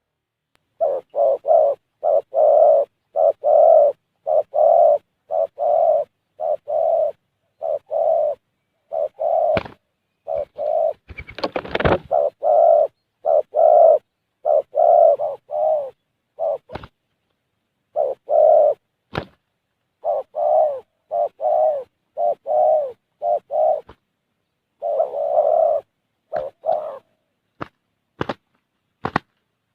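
Spotted dove (tekukur) cooing over and over in short, loud, repeated phrases. A brief rustle about a third of the way in and several sharp clicks, most of them near the end, break in between the calls.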